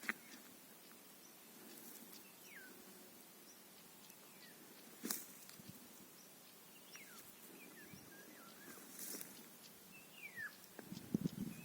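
Faint, scattered bird chirps, short calls that slide down in pitch, with a few sharp clicks and a louder knock about five seconds in.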